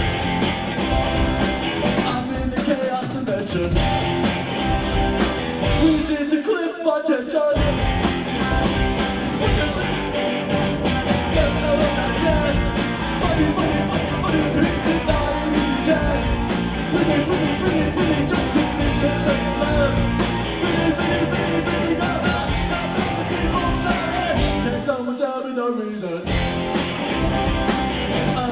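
Live rock band playing loudly, with guitar and vocals over the full band. The low end drops out briefly twice, about seven seconds in and again near the end, as the band hits breaks in the song.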